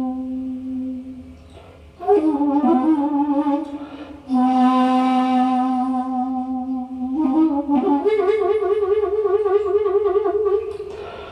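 Daegeum, the large Korean bamboo transverse flute, playing a slow improvised melody. It has long held notes joined by bending ornaments, a breathy loud note about four seconds in, and a higher note with a wide, slow vibrato near the end.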